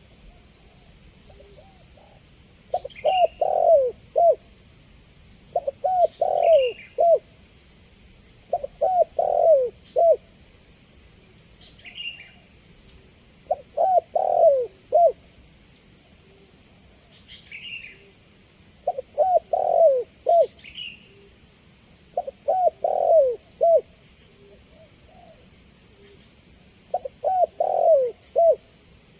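Spotted dove (tekukur) cooing: phrases of several rounded coos, repeated about every three to four seconds with a few longer pauses. Short high chirps sit between the phrases over a steady high hiss.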